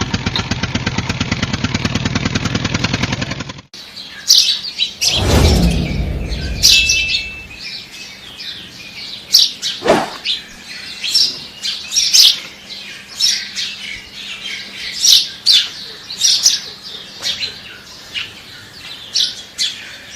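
The small engine of a homemade mini tractor running with a rapid, even beat for the first few seconds, cut off abruptly. After that, birds chirp with many short, sharp calls, with a brief low rumble about five seconds in.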